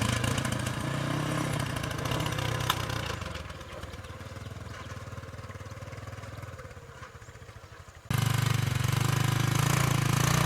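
Small diesel engine running steadily, then dying down and slowing to separate beats over several seconds. About eight seconds in it is abruptly loud and running steadily again.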